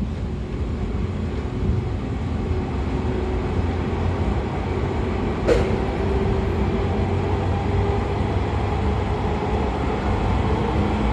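Running sound inside a 113 series electric train car, its MT54 DC series-wound traction motors and gearing under way: a steady rumble with a faint steady whine, slowly getting a little louder. A single sharp click comes about halfway through.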